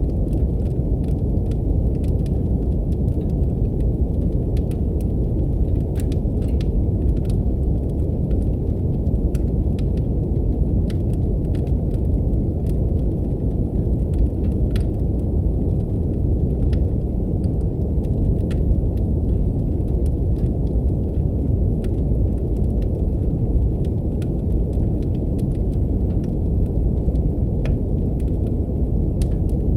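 Steady brown noise, a deep, dark hiss, with faint, irregular crackles of a wood fire in a fireplace scattered over it.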